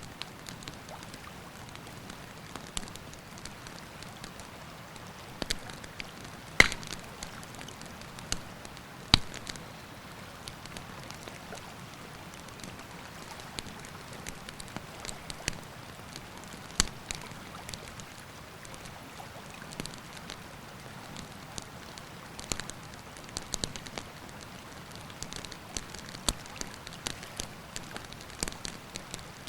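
Wood campfire crackling, with irregular sharp pops and snaps, a few much louder than the rest, over the steady rush of a river.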